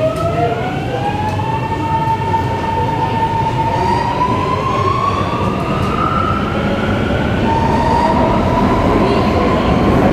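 Singapore MRT electric train accelerating, heard from inside the car: its traction motors give a whine that rises steadily in pitch over a low rumble of the running wheels. About seven seconds in, the whine drops back and starts climbing again.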